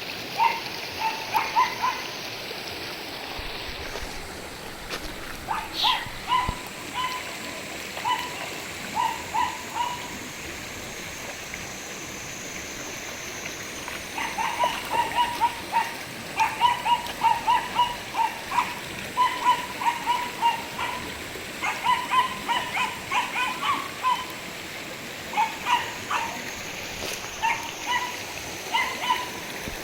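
Japanese Chin mix puppy yapping in short, high yips, grouped in quick clusters of several at a time and busiest through the middle and latter part, over a steady background hiss.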